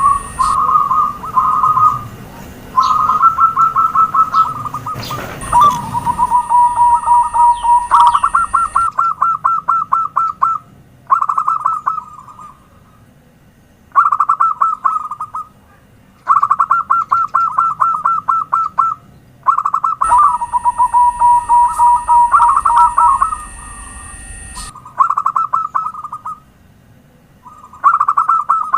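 Zebra doves (perkutut) singing: bouts of rapid staccato cooing notes, each bout a second or two long and repeated after short pauses, with now and then a drawn-out falling coo. A steady high whine sits behind some bouts and cuts in and out abruptly.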